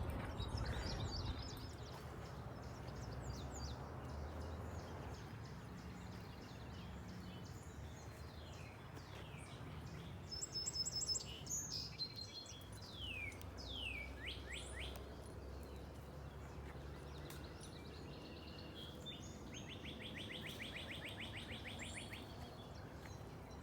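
Songbirds calling and singing: scattered high chirps, a run of quick downward-sweeping notes about halfway through, and a fast, even trill near the end, over a steady low rumble.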